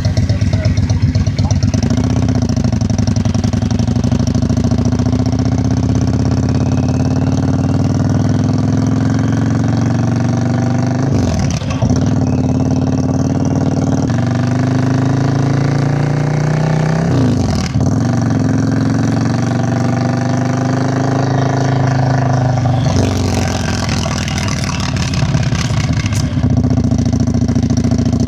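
Yamaha Virago XV535's V-twin engine and exhaust under way, rising in pitch as it pulls through the gears. The pitch breaks and drops twice, about eleven and seventeen seconds in, as the rider shifts up, then holds steadier. Wind noise runs underneath.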